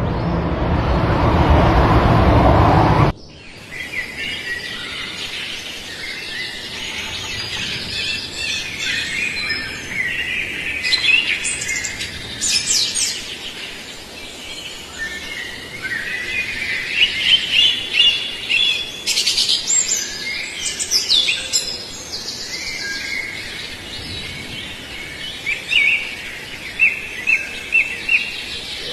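A loud rushing noise cuts off sharply about three seconds in. After it, small birds chirp and call in overlapping short notes and trills, ending in a run of evenly repeated chirps.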